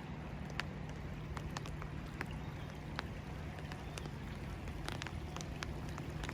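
Raindrops striking a surface close to the microphone in irregular sharp ticks, over a steady hiss of rain, with a steady low hum underneath.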